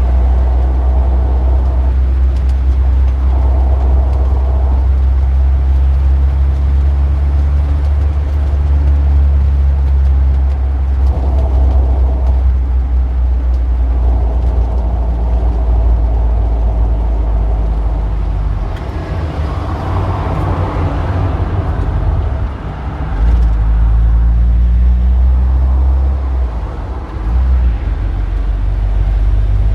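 Street traffic: a steady low engine rumble, with a vehicle passing about two-thirds of the way through.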